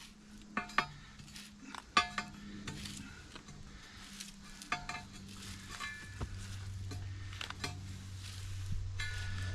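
Steel post pounder clinking and ringing against a steel garden post as it is levered up out of the ground, a series of about eight separate metallic clinks.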